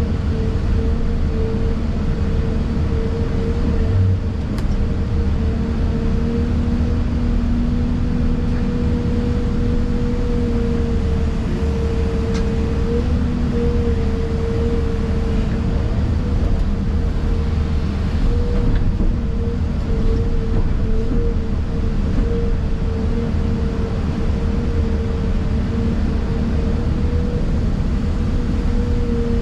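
Excavator's diesel engine running steadily at working speed, heard from inside the cab: a low rumble with a steady whine held over it.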